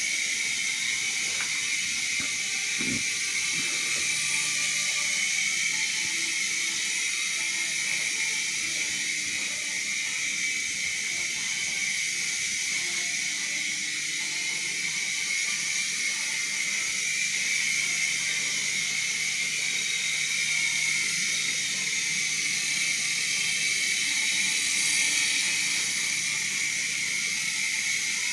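Small indoor RC toy helicopter's electric motors and rotor blades running in flight: a steady high whine and hiss that swells a little now and then.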